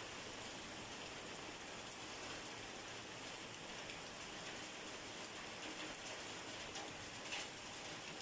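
Steady rain falling on a surface, with a few individual drops standing out now and then.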